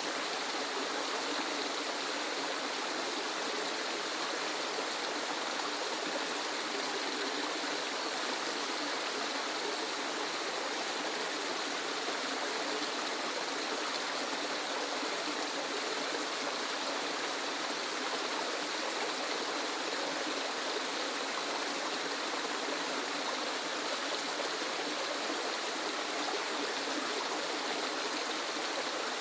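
Waterfall: water falling and rushing steadily, an even hiss with no breaks or changes.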